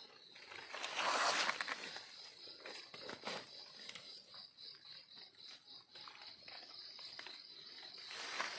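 Footsteps and rustling through dry leaf litter in a few noisy bursts, loudest about a second in, with a steady high-pitched insect drone throughout.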